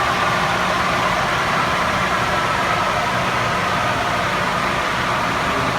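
Steady running noise from a truck on a chassis dynamometer, with no change in level, just after the end of a neutral coast-down run.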